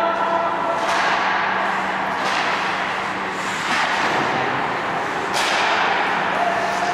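Ice hockey play on a rink: several sharp scrapes and knocks from skates and sticks on the ice, spaced a second or so apart, over a dense rink noise and a steady low hum.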